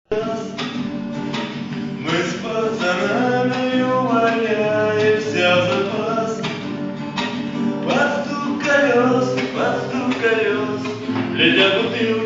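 Acoustic guitar strumming an army song, with a man singing over it.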